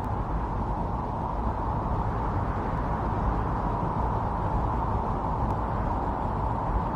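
Strong snowstorm wind blowing steadily, a dense even rush of noise without gusts or breaks.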